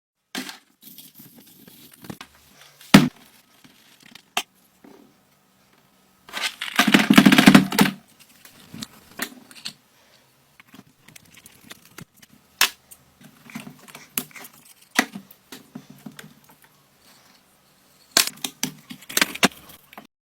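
Hand work on metal parts in a small workshop: scattered clicks and knocks, one sharp hit about 3 s in, and a loud rasping burst lasting about a second and a half around the middle.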